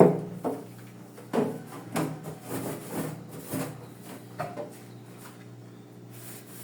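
Knocks and clatters of containers and food items being set onto refrigerator shelves and into the door bins, loudest right at the start and dying away after about four and a half seconds, over a steady low hum.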